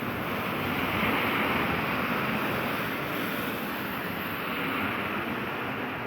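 Rushing, hissing noise of a rainy street, swelling about a second in and then slowly fading.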